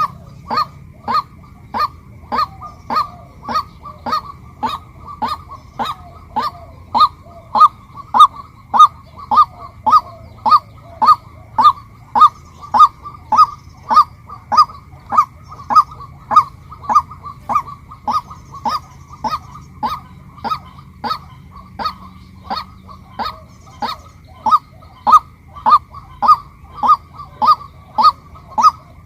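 Female white-breasted waterhen calling: an unbroken, evenly paced series of short single-note calls, a little under two a second, fading somewhat in a couple of stretches.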